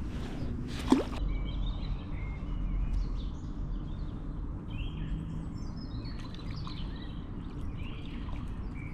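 Birds chirping and calling over a steady low outdoor rumble, with one short sharp knock about a second in.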